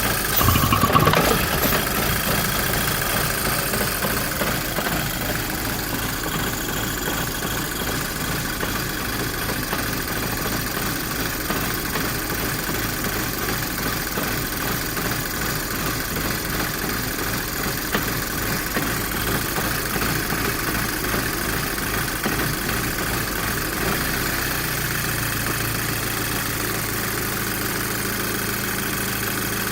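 VW Golf GTI Mk5's 2.0-litre turbocharged four-cylinder idling roughly while cold, with a brief louder burst about a second in. A steady low hum joins the idle about 24 seconds in.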